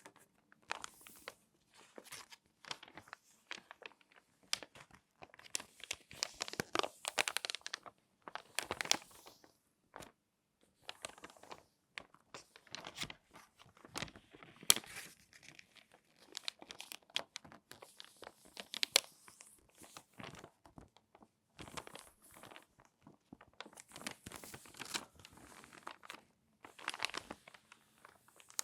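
Crinkly magazine pages being folded and creased by hand, crackling in irregular bursts with short pauses between them.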